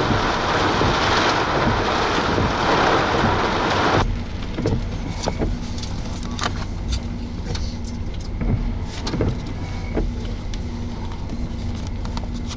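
Car on the move with a loud, even rushing noise of rain and wind that cuts off abruptly about four seconds in. After that comes a steadier low road and engine rumble with scattered clicks.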